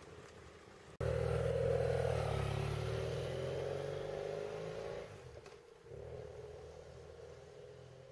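Motorcycle engine running, cutting in abruptly about a second in with its pitch slowly sinking, then dipping and carrying on steadier and quieter.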